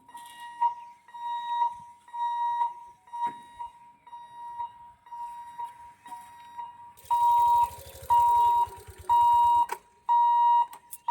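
Railway level-crossing warning alarm beeping a steady high tone about once a second, the signal that the gate is closing for an approaching train; the beeps become louder about seven seconds in. A vehicle engine rumbles past during the louder beeps, for about three seconds.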